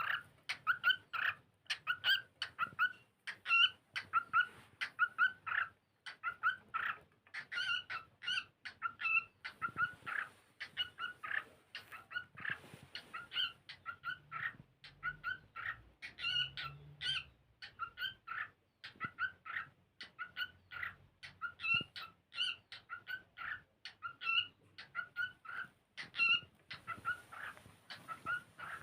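Cockatiel singing: an unbroken run of short, quick whistled chirps, several a second, with only brief pauses.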